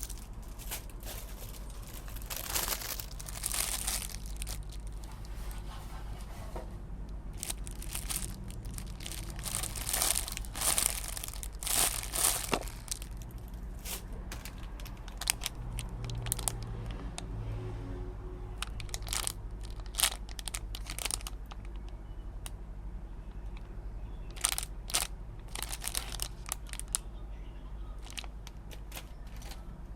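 Plastic packaging crinkling and tearing in irregular bursts as it is handled and opened.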